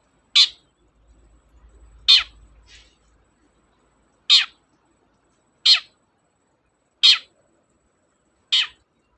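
Long-tailed shrike (cendet) giving six short harsh calls, about one every one and a half seconds, with a fainter call after the second.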